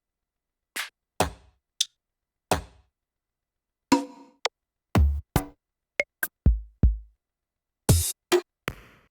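Sparse electronic drum hits from Ableton Live's built-in devices: short clicks, noisy snappy strikes and a couple of deep kicks with falling tails, irregularly spaced with silence between them.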